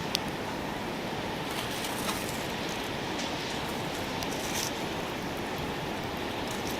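Cooking over a wood campfire: a steady hiss with a few sharp crackles and pops.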